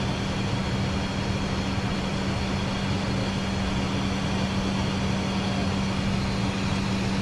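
Steady cockpit noise of an Embraer Phenom 100 business jet in the climb: even rushing airflow and turbofan engine noise with a constant low hum underneath.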